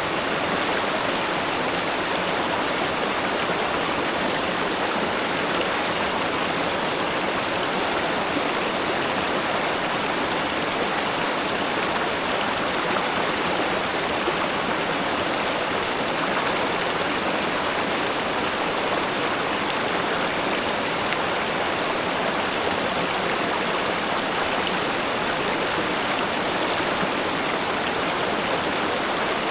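Steady flowing water of a spring-fed river or stream, an even rushing without breaks.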